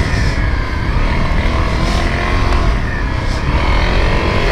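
Honda CRF250L's single-cylinder four-stroke engine running as the bike is ridden, its speed rising and falling a little with the throttle. A heavy low rumble of wind on the microphone sits under it.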